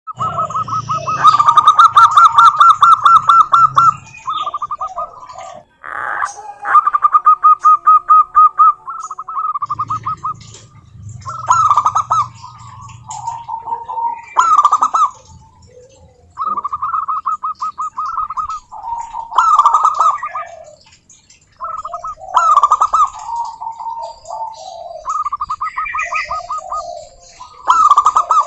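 Zebra doves singing: repeated phrases of fast, trilling coos, one after another with short gaps, at times two birds overlapping at different pitches.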